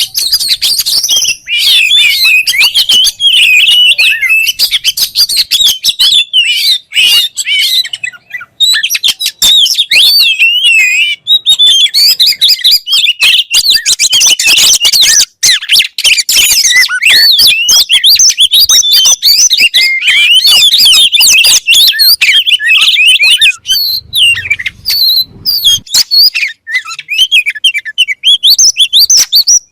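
Oriental magpie-robin (kacer) singing a loud, unbroken run of rapid, varied whistled phrases, pausing only briefly twice. This is the kind of lively song played to bird keepers' kacer to set them singing.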